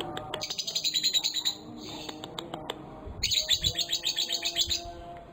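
Young lovebird chattering in fast trills, in two long bursts a second or so apart; the kind of lure song played to coax other lovebirds into singing.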